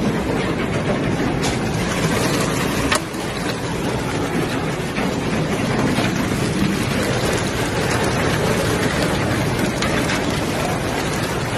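Steady rushing storm noise of wind and rain, with a few sharp knocks scattered through it.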